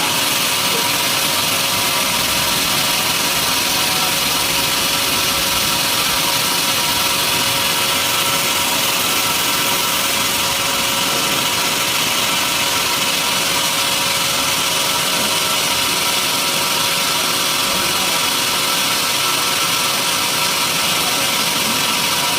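Sawmill machinery running steadily, a continuous even machine noise with a faint steady hum and no pauses or impacts.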